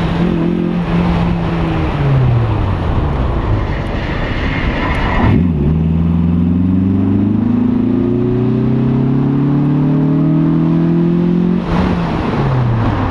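A roadster's engine running hard on an autocross course: its note falls from about two seconds in as the driver lifts off, then climbs steadily from about five and a half seconds under full acceleration and falls again near the end. Wind rushes over the hood-mounted microphone throughout.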